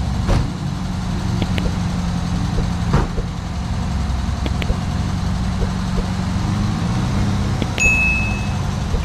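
Air-cooled flat-four engine of a 1972 Volkswagen Fusca (Beetle) running steadily as the car drives up the street. Near the end, a subscribe-button sound effect adds a few clicks and a short bell ding.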